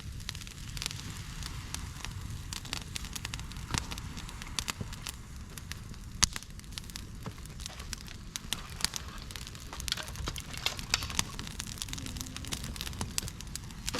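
Campfire of dead bamboo, twigs and leaves burning on a fire stand, crackling with frequent sharp, irregular pops over a steady low rumble. One pop about six seconds in is louder than the rest.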